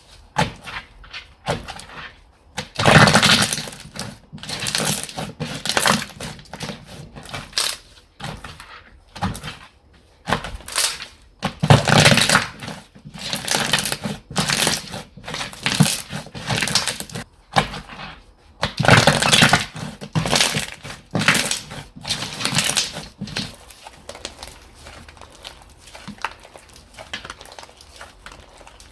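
Hands squishing, pressing and stretching slime, giving irregular crackling, popping squishes that come in uneven bursts. The loudest clusters are a few seconds in, about twelve seconds in and around twenty seconds in, and the handling grows quieter near the end.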